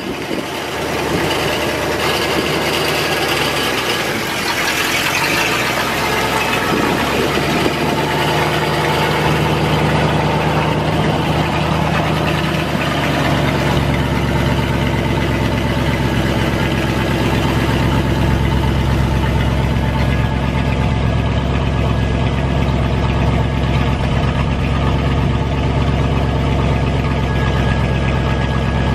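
Chevrolet 350 V-8 gas engine of a 1977 Chevrolet C60 truck idling steadily, its low hum growing fuller about halfway through.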